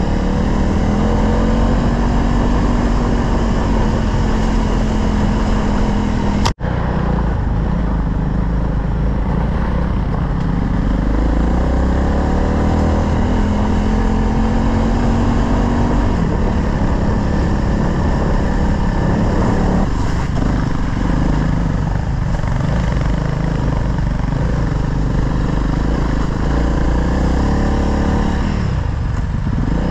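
Single-cylinder dual-sport motorcycle engine running under way, its pitch rising and falling with the throttle. The sound cuts out for an instant about six seconds in.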